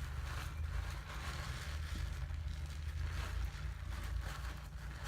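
Wet loofah being lathered with a bar of Irish Spring Original soap, making uneven swells of soft squishing and scrubbing over a steady low rumble.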